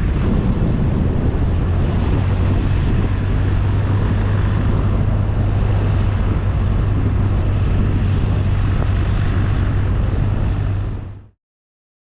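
BMW R 1250 RT motorcycle cruising on the open road, heard from on board: a steady low engine drone under a constant rush of wind noise, fading out about a second before the end.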